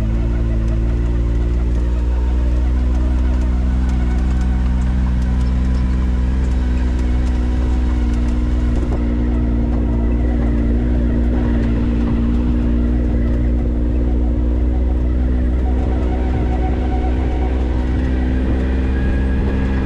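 A vehicle's engine and drivetrain give a steady, even drone, heard from inside the cabin while driving slowly. The pitch rises slightly near the end.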